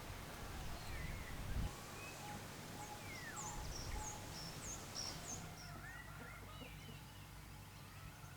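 Birds calling in the open: scattered short whistles and chirps, with a run of quick high chirps in the middle, over a faint steady low hum.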